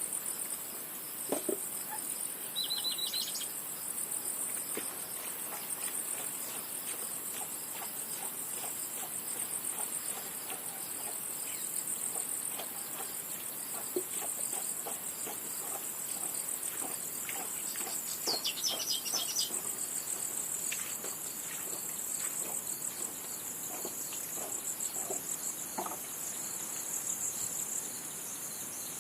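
Insects chirping in a steady, high, pulsing chorus, with a short run of higher chirps about three seconds in and another about two-thirds of the way through, and faint scattered clicks and taps.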